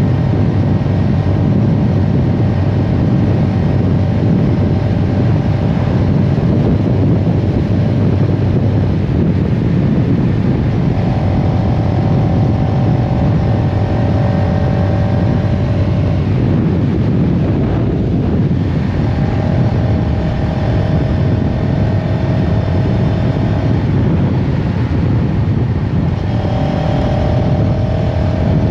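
CFMoto CLX700 Heritage's parallel-twin engine running under way, over a steady heavy rush of noise. Its note climbs gently in three stretches, breaking off briefly about two-thirds of the way through and again near the end.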